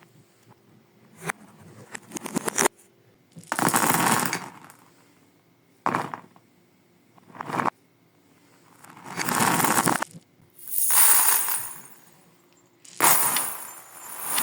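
Beads and small cubes clattering and rattling in repeated bursts, about six of them, with quiet gaps between.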